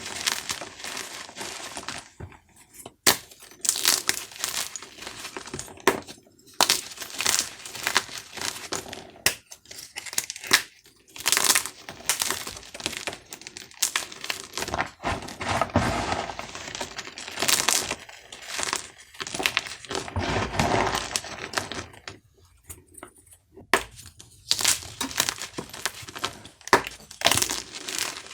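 Dyed gym chalk cubes being crushed by hand, crunching and crumbling in a rapid, irregular series of crisp cracks, with a few short pauses between squeezes.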